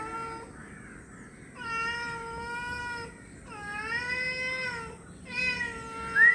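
A cat giving three long, drawn-out meows one after another, each lasting over a second, with short pauses between them.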